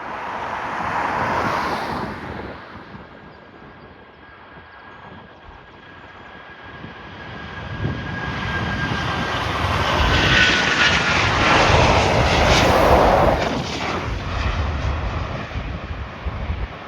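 Aircraft engines passing by at an airport. The noise swells, eases, then builds to its loudest about two-thirds of the way in. A thin whine drops slightly in pitch as it passes, and a low rumble follows.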